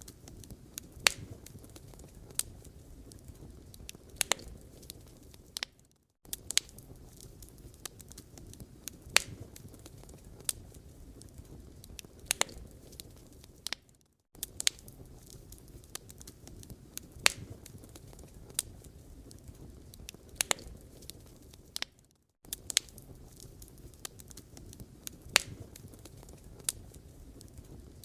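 A wood fire crackling in a fireplace: irregular sharp pops and snaps over a soft low rumble of burning. The sound cuts out for a moment about every eight seconds, where a short recording loops.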